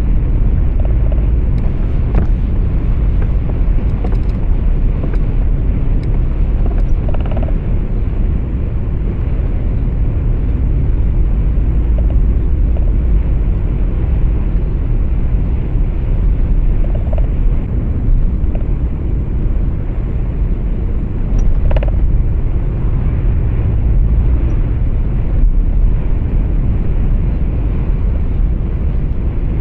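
Steady low rumble of a truck's engine and road noise heard from inside the cab, with a few faint ticks now and then.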